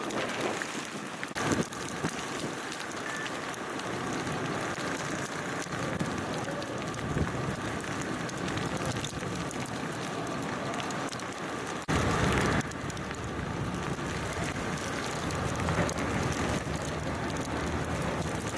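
Steady crackling hiss of sleet and wet snow falling and ticking on surfaces, with a low traffic rumble underneath. The sound changes abruptly a couple of times, louder and fuller for a moment about 12 seconds in.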